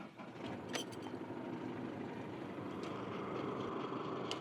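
Car engine being jump-started from a portable jump starter because its cranking battery is flat: it comes up in the first second and then settles into a steady idle.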